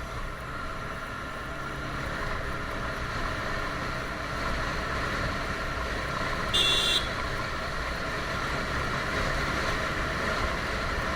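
TVS Apache RTR 160 single-cylinder motorcycle running steadily at road speed, with road and wind noise, as heard from a camera on the bike. About two-thirds of the way through, a single short, high-pitched horn beep sounds.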